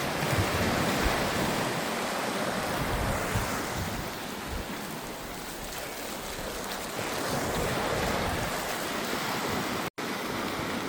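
Ocean surf washing in at the shore, a steady rush that swells and eases, with wind buffeting the microphone. The sound drops out for an instant near the end.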